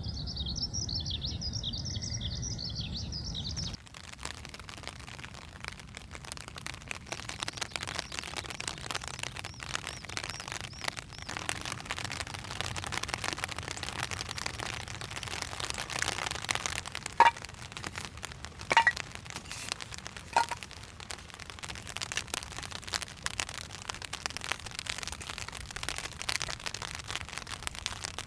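Birds chirping over a low outdoor rumble, cut off about four seconds in by a wood campfire crackling: a dense run of small irregular snaps, with three louder pops a little past the middle.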